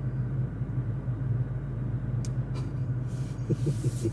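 Steady low rumble of a vehicle driving, heard from inside the cabin, with a couple of faint clicks a little past halfway.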